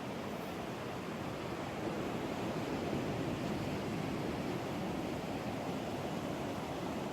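Ocean surf washing steadily, growing a little louder about two seconds in.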